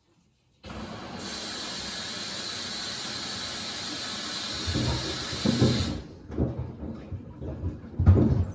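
Samsung washer-dryer taking in water: a steady hiss of water rushing through the inlet valve that starts abruptly and cuts off suddenly about six seconds in. It is followed by a few short, uneven low sounds.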